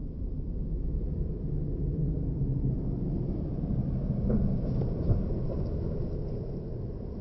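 Ford Mustang GT's 5.0-litre V8 running with a deep exhaust rumble that builds to a peak a little past halfway and then eases off.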